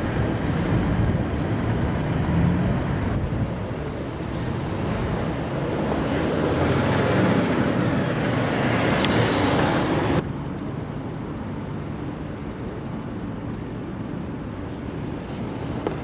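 Street traffic and road noise with wind on the microphone, heard from a moving scooter. The noise swells over the first ten seconds, then drops off suddenly to a lower steady rumble.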